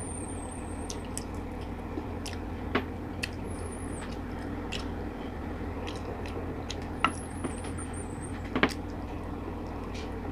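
Close-miked eating sounds: chewing, lip smacks and scattered sharp mouth clicks from a person eating chicken feet adobo by hand, over a steady low hum and hiss.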